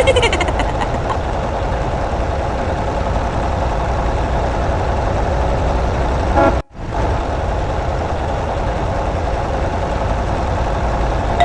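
Heavy vehicle engine running steadily, with a short horn toot and a sudden brief break about six and a half seconds in.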